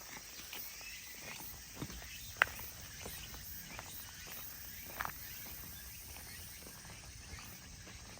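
A small stream of water running faintly, with a few short, sharp clicks over it; the loudest comes about two and a half seconds in.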